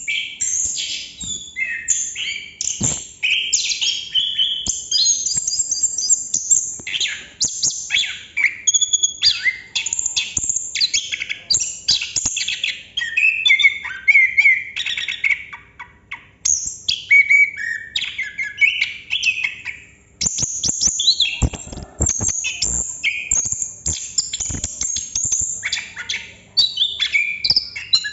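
Chestnut-capped thrush singing a long, continuous run of varied whistled phrases with barely a pause, the rolling 'ngerol' song that bird keepers prize.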